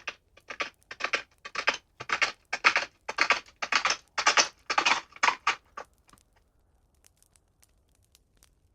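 A sound effect of crunching steps on a gravelly surface, about two a second, growing louder and stopping about six seconds in, like something approaching and halting; a few faint ticks follow.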